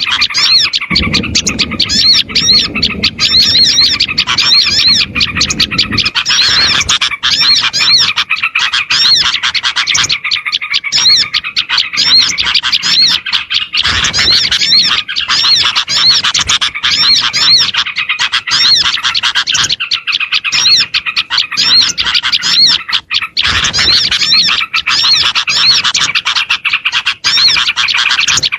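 Dense, noisy chorus of many small songbirds chirping in rapid, repeated high notes: a mixed small-bird lure recording made to draw wild small birds in. The chorus breaks off briefly a few times.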